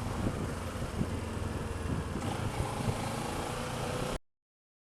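Kawasaki ER-6f parallel-twin motorcycle engine running steadily under a haze of wind and road noise, heard from a helmet-mounted camera; the sound cuts off suddenly about four seconds in.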